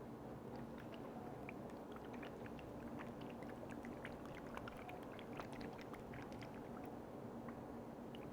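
Close-miked liquid being poured or swirled in a container, heard as many small wet clicks and crackles, densest in the middle, over a steady low hum.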